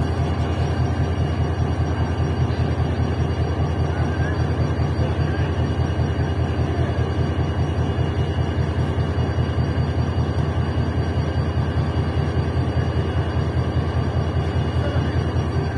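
Diesel locomotive engine running steadily with a fast, even low throb and a faint steady whine above it.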